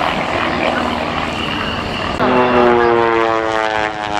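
Propeller engines of Pitts S-1D aerobatic biplanes in flight: a rough rushing drone, then about halfway a louder engine note cuts in and slowly falls in pitch as an aircraft passes close.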